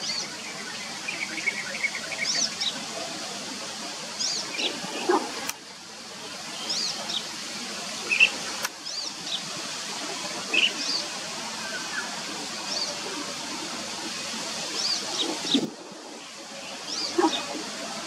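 Small birds chirping: short, high notes come every second or so, over steady background noise. The background changes abruptly three times where the recording is cut.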